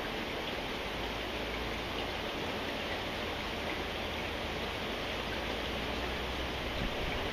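Steady rainfall: an even hiss with faint scattered drop ticks.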